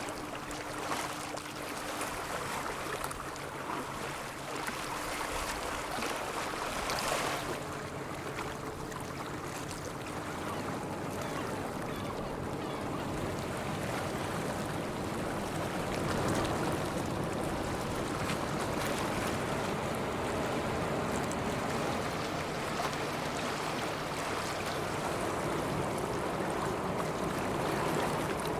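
Waterfront ambience: a steady rush of water and wind noise, with a faint low, steady hum through roughly the first ten seconds.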